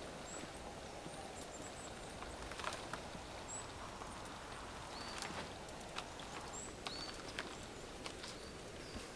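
Small birds giving short, high chirps every second or so over a steady outdoor hiss, with scattered sharp clicks and knocks.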